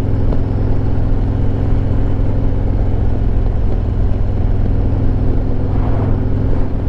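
2023 Harley-Davidson Road Glide Limited's Milwaukee-Eight 114 V-twin running at a steady cruise, with wind rushing past.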